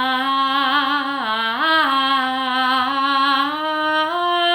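A woman singing one long held 'ah' without a break, with a slight waver in pitch; the note dips and comes back a little over a second in, then steps up twice near the end.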